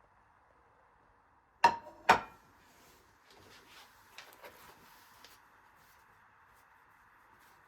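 Two sharp, ringing clinks of kitchenware about half a second apart, followed by a few softer taps and light clatter.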